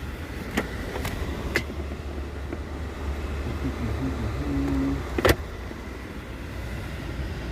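The S550's twin-turbo V8 idling in a steady low rumble, heard from inside the cabin shortly after a cold start. A few light clicks from the interior controls come in the first two seconds, a brief electric motor hum just before five seconds, and a sharp click right after it.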